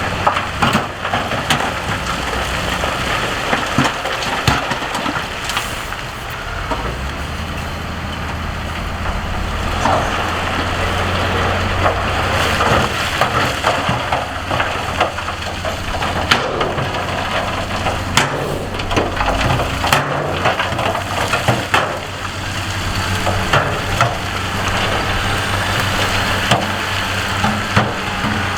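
A heavy earthmoving machine's diesel engine running under load while rock and gravel crunch, scrape and clatter. Sharp cracks of stones knocking together come again and again, and the engine hum is strongest from about a quarter to two thirds of the way through.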